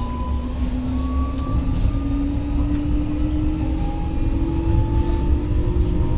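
Electric multiple unit running on the rails, with a deep rolling rumble and a traction motor whine that rises slowly in pitch as the train accelerates.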